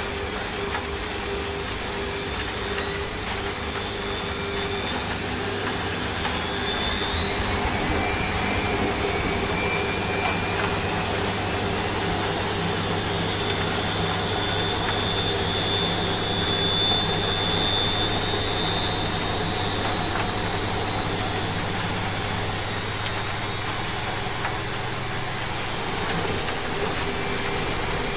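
Washing machine in its spin cycle: the motor's whine climbs slowly in pitch as the drum speeds up, then holds steady at full spin. Under it is a steady hiss of rain.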